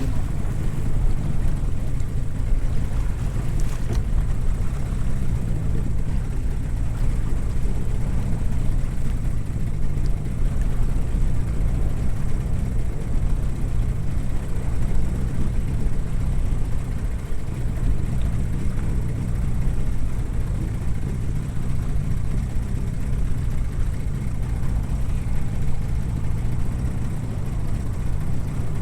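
Small fishing boat's engine running steadily under way, a constant low rumble with wind and water noise over it.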